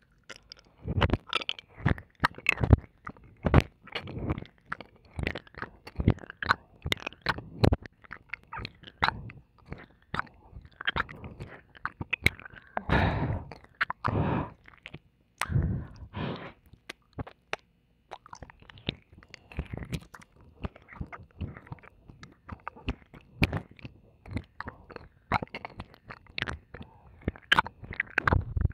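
Close, wet mouth sounds of ear-licking ASMR: a dense, irregular run of licks, kisses and smacking clicks against the microphone, with a few longer wet strokes about halfway through. Mostly in the right ear.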